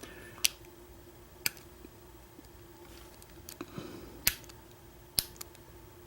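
Sharp metallic clicks, about six, spaced unevenly, from a lock pick and tension wrench working the pin stack of an American Lock 1100 padlock during single pin picking. A faint steady hum runs underneath.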